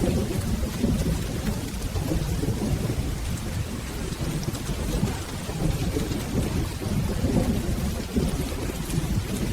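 Steady rain with a low, continuous rumble of rolling thunder.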